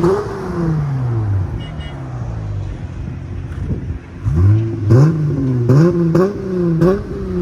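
Dodge Challenger 3.6L V6 with MagnaFlow MagnaPack mufflers and resonator-delete J-pipe tips being free-revved. The revs fall back to a steady idle in the first second and a half, then about four seconds in the engine is blipped sharply about four times before dropping back.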